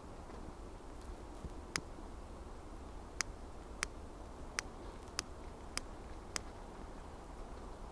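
Campfire of firewood crackling: a run of sharp pops at uneven spacing, about seven of them, over a low steady rumble.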